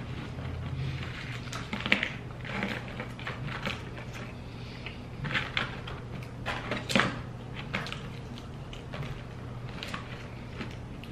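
Close-miked chewing and crunching of tortilla chips, with irregular crackles and sharp crunches, loudest about two seconds in and again around the middle, and chips scraping in a plastic tray as they are picked up.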